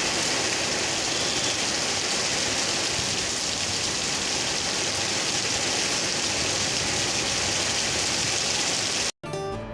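Heavy rain falling, a dense steady hiss with no let-up. It cuts off abruptly about nine seconds in and acoustic guitar music begins.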